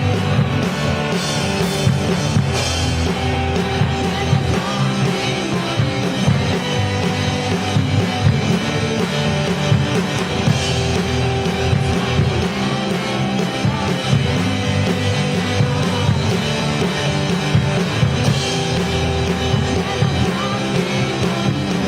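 Rock band playing live: drum kit and guitars keep up a steady driving beat.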